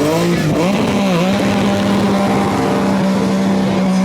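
Rally car engine blipped up and down for about a second, then held at steady high revs.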